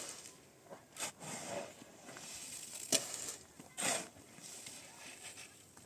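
A few sharp knocks or clacks at irregular intervals, four in all, with soft rustling and scraping between them.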